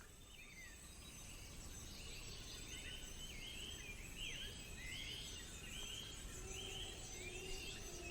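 Faint forest ambience in which a bird calls a short, high, repeated note in a steady series, starting about two seconds in.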